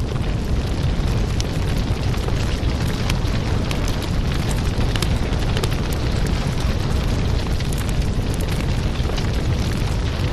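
Wood fire burning: a steady low rumble of flames with frequent sharp crackles and pops from the burning logs.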